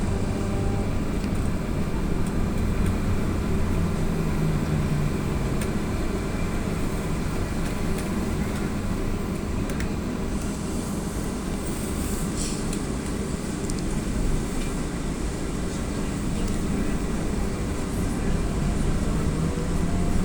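Inside the cabin of an AKSM-321 trolleybus under way: a steady rumble of the road and running gear, with faint steady tones above it.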